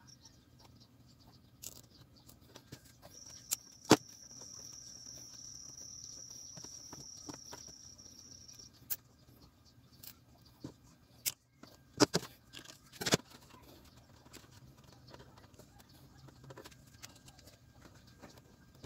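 Scattered light clicks and knocks of parts and tools being handled on a workbench, a few of them sharper, about 4 s in and twice around 12 to 13 s. An insect trills in the background, one steady high note that starts about 3 s in and stops about 9 s in.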